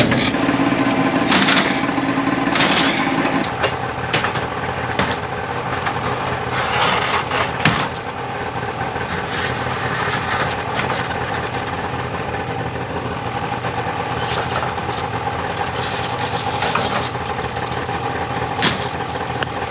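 Engine idling steadily, with scattered short clicks and knocks over it.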